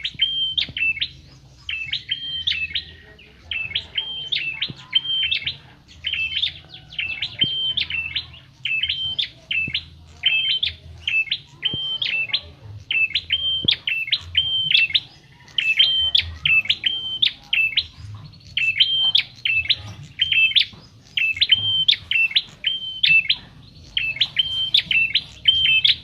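Olive-backed tailorbird (prenjak kepala merah, cimblek) calling: loud, sharp, high chirps in quick clusters of three or four, repeated over and over about every second and a half.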